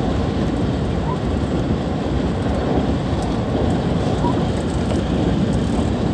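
Running noise inside a JR West 223 series electric train at speed: a steady, mostly low noise of wheels on rail and the car in motion.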